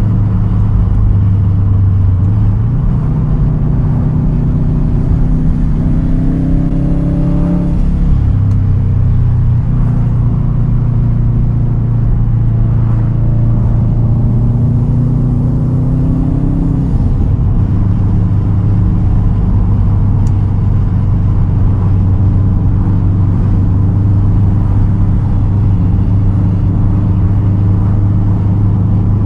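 2010 Subaru WRX STI's turbocharged 2.5-litre flat-four running through a Tomei titanium single straight-pipe exhaust while driving. The engine note rises twice, each pull ending in a sudden drop in pitch, about 8 and 17 seconds in, and runs steadily in between.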